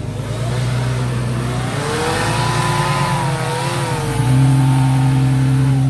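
Off-road 4x4 engines running at high revs. One holds a steady note, and another's pitch wavers up and down in the middle.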